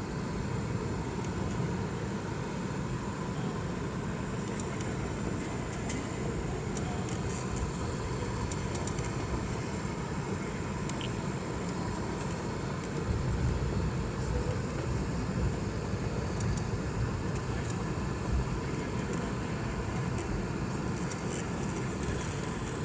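Steady hum and rumble of a Boeing 717 airliner's rear-mounted Rolls-Royce BR715 engines, slightly louder for a few seconds around the middle.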